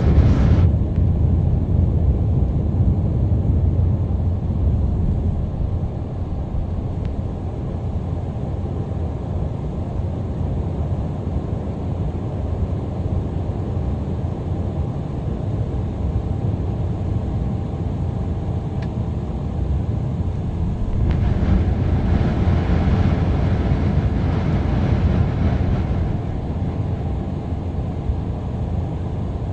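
Embraer 190 jet airliner with its twin GE CF34 turbofans, a steady, loud, deep rumble of engine and airflow noise during the take-off. It eases slightly over the first few seconds, and about two-thirds of the way through a few seconds of extra hiss rise and fade.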